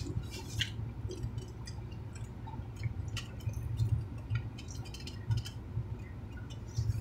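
Two people chewing and smacking their lips while eating, one of them a quesadilla, with short wet mouth clicks scattered irregularly throughout. Underneath runs a steady low hum.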